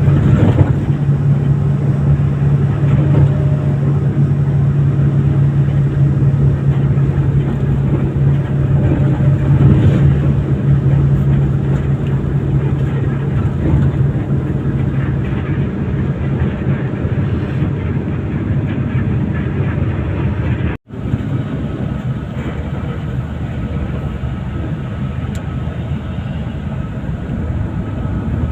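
Steady engine drone and road noise of a moving vehicle, with a strong low hum that fades about halfway through. The sound cuts out for a moment about 21 seconds in, then continues as a lower, even rumble.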